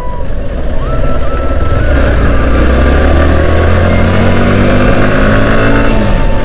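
Yamaha R15 sports motorcycle's single-cylinder engine running under way as the bike is ridden, its pitch climbing slowly and then dropping a little near the end as the throttle eases.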